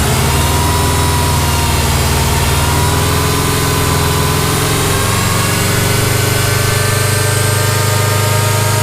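2002 JDM Subaru WRX's turbocharged flat-four engine held at a steady raised rev, running up the coolant circulation to push trapped air out of the cooling system while it is being burped.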